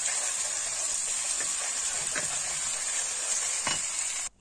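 Blended pepper, garlic and onions sauteing in hot olive oil in a pot: a steady sizzle with a few faint clicks. It cuts off abruptly near the end.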